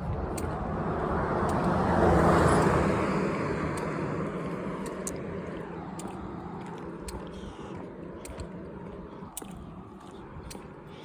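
A car driving past, swelling to its loudest about two seconds in and then fading away, over regular footsteps on the pavement.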